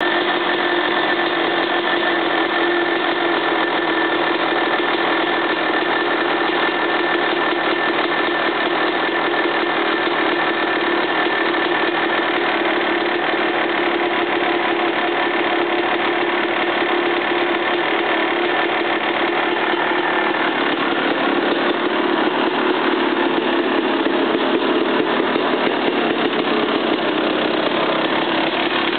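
2000 Suzuki RM250 two-stroke single-cylinder engine running steadily at idle with a knocking noise that the owner cannot place as piston slap or rod knock. It runs a little louder for a few seconds about three-quarters of the way through.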